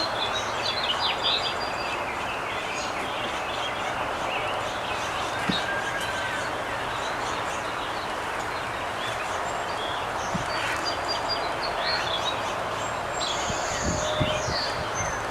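Birds chirping over a steady outdoor background hiss, with a few soft low knocks near the end.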